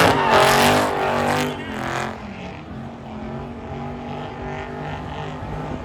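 A car doing a burnout: the engine revs hard with tyres squealing for about two seconds, then drops to a lower, steadier engine sound.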